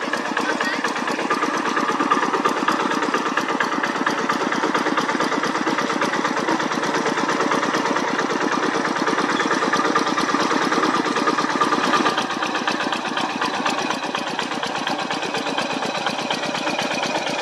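Diesel tractor engine running steadily while ploughing, its rapid even firing pulses continuous; it drops slightly in level about twelve seconds in.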